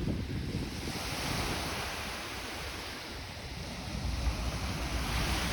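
Lake Ontario waves washing onto the sandy shore, with wind buffeting the microphone; the low wind rumble grows stronger about four seconds in.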